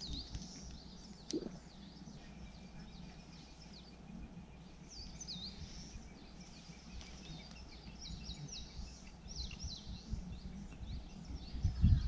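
Wild birds singing and chirping, many short, quick sweeping notes overlapping one another, over a faint steady low rumble. One brief tap about a second and a half in.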